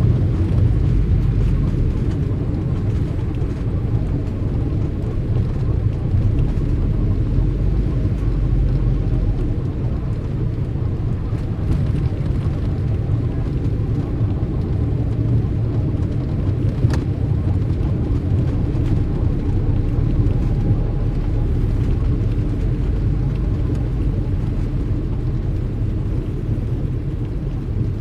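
Steady low rumble of street traffic, with a single sharp click about seventeen seconds in.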